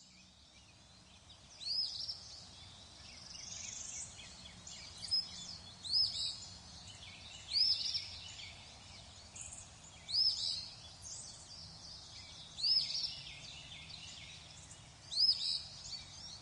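A bird calling over and over: short, high-pitched chirps repeated every one to three seconds over a faint steady background.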